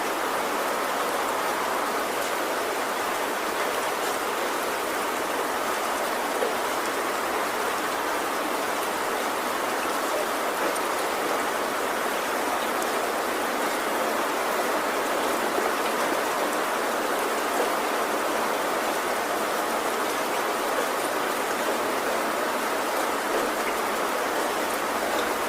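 Heavy rain falling steadily on a tin roof: an even hiss of many drops with scattered faint ticks, and no thunder.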